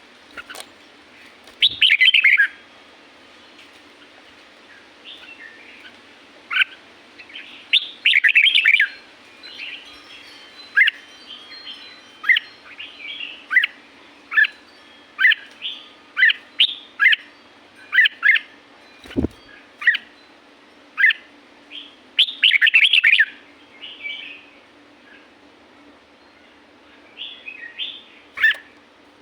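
Red-whiskered bulbul singing short, bright whistled phrases over a faint steady hum. It gives louder chattering clusters near the start, around 8 seconds and around 22 seconds, with single notes about once a second in between.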